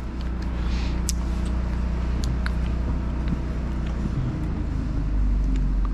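A steady low machine hum, its pitch shifting about four seconds in, with a few faint light clicks.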